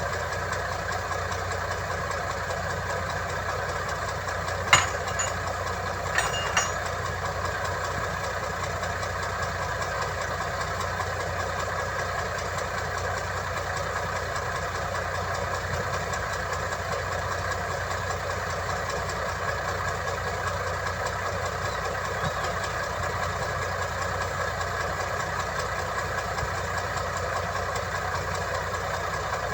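Diesel engine of heavy earthmoving machinery running steadily. There is one sharp metallic knock about five seconds in, and two more a second and a half later.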